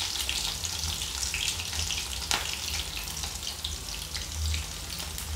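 Chopped garlic and green chilli sizzling in hot oil in a kadhai on a low flame: a steady hiss with scattered small crackles, one sharper pop about two seconds in.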